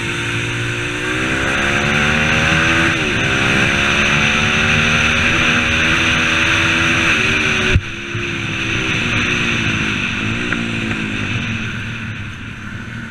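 M2R 140cc pit bike's single-cylinder four-stroke engine revving up and down while riding. About eight seconds in a sharp knock cuts the rising note, and the engine drops to a lower, falling pitch that fades toward the end.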